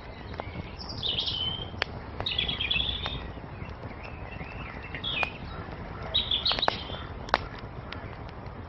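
Wood fire crackling, with scattered sharp pops over a steady low rush, while small birds sing short chirping phrases about four times.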